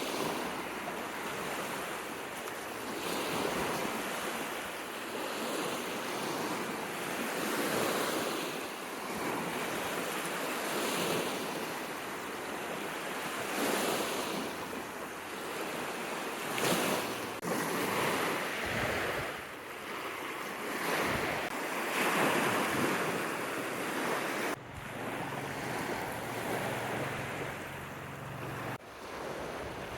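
Lake waves breaking and washing up on the shore, swelling and ebbing every few seconds, with wind.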